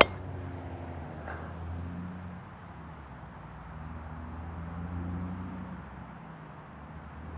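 A golf club strikes the ball once with a sharp crack on the tee shot. Then a passing train runs steadily, with a low engine hum that swells and eases.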